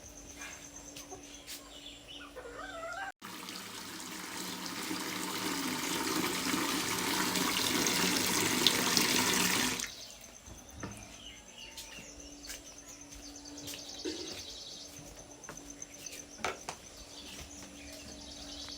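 Water running hard from a tap. It starts abruptly about three seconds in and cuts off suddenly about six seconds later, with quieter water sounds before and after.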